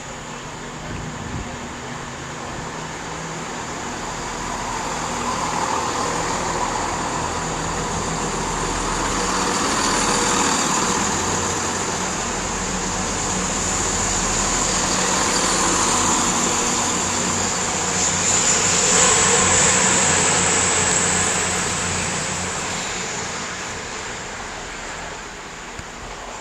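Diesel train engines running at a station platform. The noise swells and fades several times, loudest a little past the middle, over steady low engine notes, with a thin high whine held throughout.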